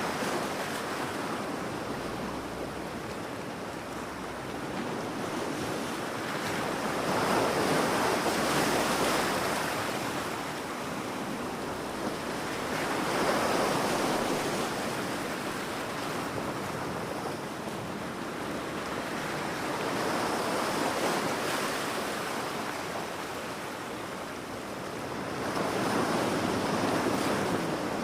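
Ocean waves breaking on a beach: the surf swells and washes back in four slow surges, about one every six seconds.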